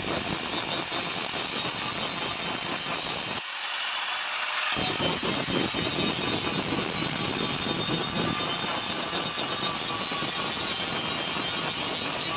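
Power tool running steadily on metal, a continuous noisy whir; its low rumble drops out for about a second partway through.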